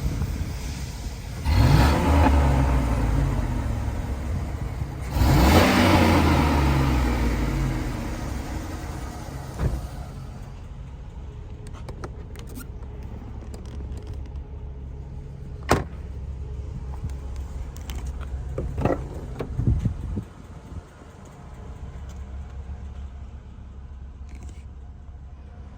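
Chevrolet Avalanche V8 engine blipped twice, each rev rising quickly and falling slowly back, then idling steadily. A few sharp clicks sound over the idle.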